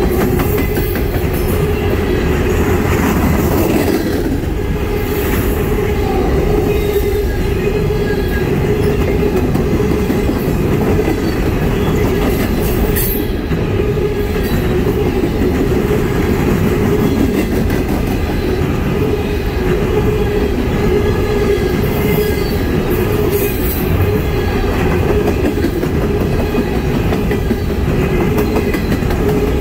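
Empty coal gondolas of a long freight train rolling past close by: a steady, unbroken rumble of steel wheels on the rails.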